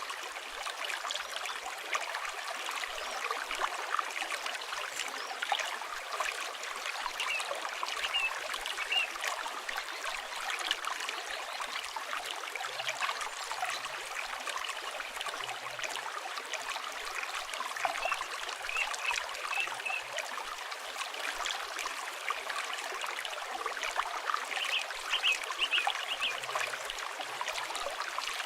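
River water flowing steadily, with the fine crackle of a campfire mixed in. Short bird chirps come in a few times: near 8 seconds, around 19 seconds and again near the end.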